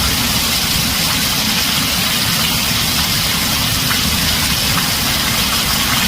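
Heavy rain drumming steadily on a tin roof, with a continuous low rumble underneath.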